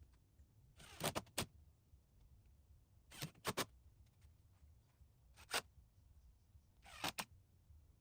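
Sharp knocks in quick clusters of two or three, five groups about two seconds apart: tool work fastening wooden cladding in place.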